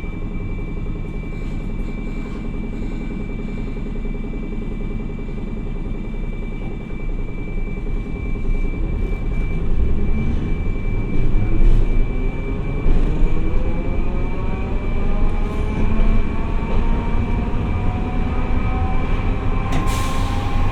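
Hiroden 700 series tram no. 701 running, heard on board: a steady low rumble with a constant high tone. From about seven seconds in, a whine from the traction motors and gearing rises steadily in pitch and the wheel rumble grows louder as the tram accelerates.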